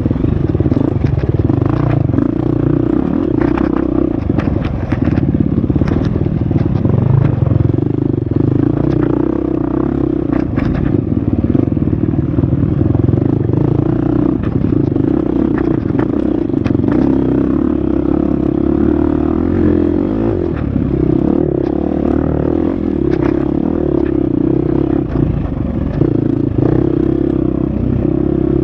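Husqvarna FX 350 dirt bike's four-stroke single-cylinder engine running steadily under load, its pitch shifting up and down with the throttle, with scattered knocks through it.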